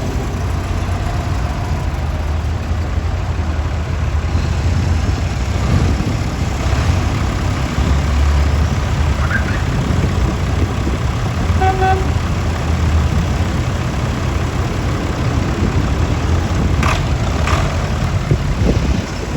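Tractor engines running steadily, with a short horn toot about twelve seconds in.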